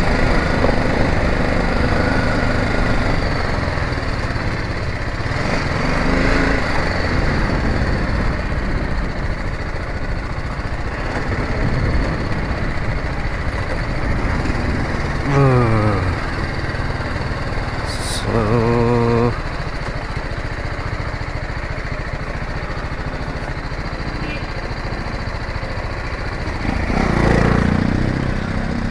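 Motorcycle engine running as the bike is ridden, with brief changes in revs about halfway through.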